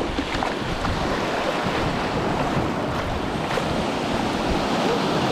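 Small surf breaking and washing in a steady rush, with wind buffeting the microphone as a low rumble.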